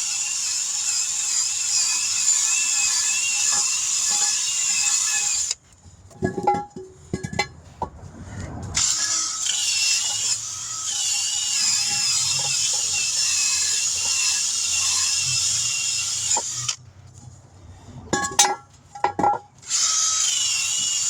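Handheld power drill running at high speed in three long runs, its pitch wavering under load, with a few knocks and clatters in the short pauses between runs; the work is cleaning up a wheel rim.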